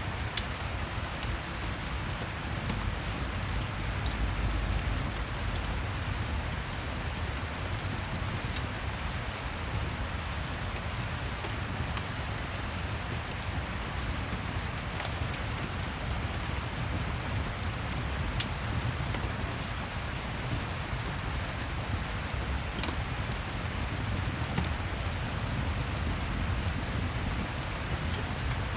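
Steady rain ambience mixed with a fireplace: an even rush of rain over a low rumble, with a few sharp pops scattered through it.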